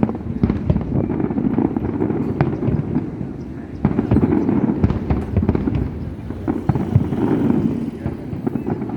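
Fireworks display going off: a dense, continuous run of booms and crackling bursts, easing briefly a few seconds in before picking up again.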